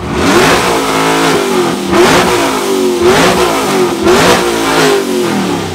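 Camaro and Mustang engines revved hard and repeatedly in a rev battle, the pitch climbing and dropping with each blip, with three louder bursts about a second apart; it eases off near the end.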